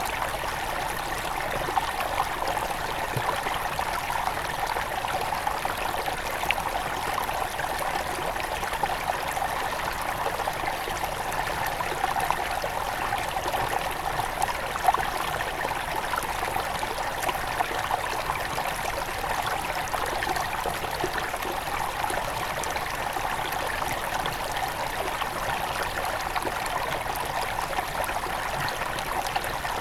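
A small headwater river flowing steadily over stones, a continuous babble with small splashes and trickles.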